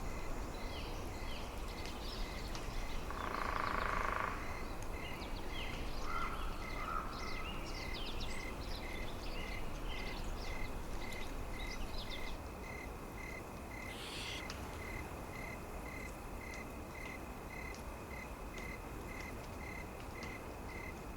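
Forest ambience: a steady low rush of wind under small birds chirping in many short calls, which stop about halfway through. One louder call comes about four seconds in, and a faint even chirp repeats about twice a second throughout.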